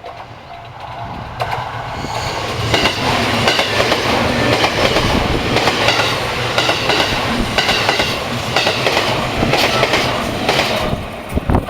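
A train passing close by on the Sasebo Line, its wheels clattering over rail joints in a quick, uneven rhythm. It builds up over the first two seconds, stays loud, and drops away near the end.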